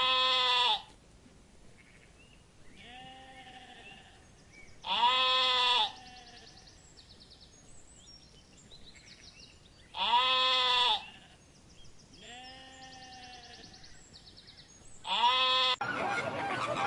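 Sheep bleating: four loud bleats about five seconds apart, each about a second long, with fainter bleats in between. Near the end a dense, noisy din cuts in.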